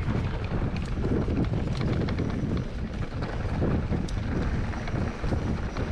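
Wind buffeting the microphone of a mountain biker riding a dirt trail, a rough low rumble that comes and goes, with scattered short clicks and rattles from the bike.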